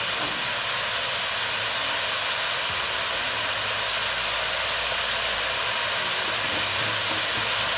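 Chopped turnips, onion and tomato sizzling in hot oil in a pressure cooker: a steady, even hiss.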